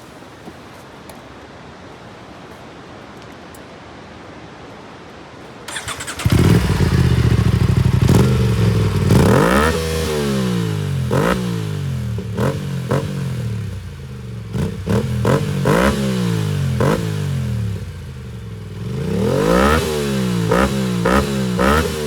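Aprilia RS 457's parallel-twin engine breathing through an R9 full-system aftermarket exhaust. After a faint steady hiss it starts up suddenly about six seconds in, then idles and is revved in a string of sharp throttle blips and a few longer rising revs.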